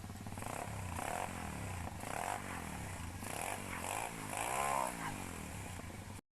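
Pit bike engine revving up and down several times, with one longer rise and fall in pitch near the end, then cutting off abruptly.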